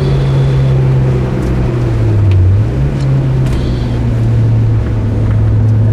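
The HKS-tuned Mitsubishi Lancer Evolution MR FQ-360's turbocharged 2.0-litre four-cylinder engine running hard, heard inside the cabin over steady road and wind noise. A little past two seconds in, its pitch dips briefly, then jumps up higher before settling.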